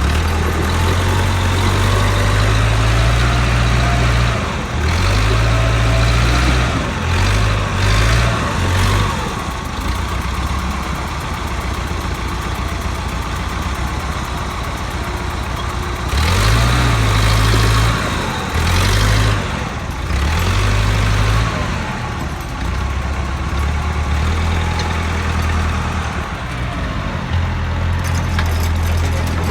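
Backhoe's diesel engine running under load as it tows a dozer whose engine is locked up, revving up and easing off several times.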